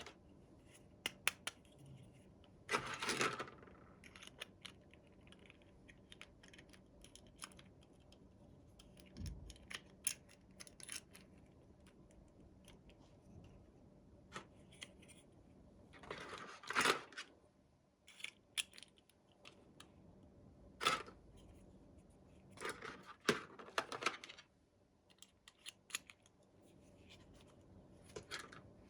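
Small plastic toys and their packaging being handled: scattered light clicks and taps, with a few brief rustles or crinkles, faint overall.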